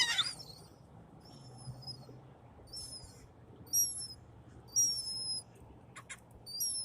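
Birds calling: a harsh falling call at the start, then about five short, thin, high-pitched squeals spaced roughly a second apart.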